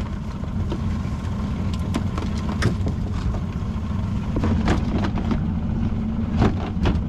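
Small boat's outboard motor idling steadily, with several sharp knocks and clicks over it.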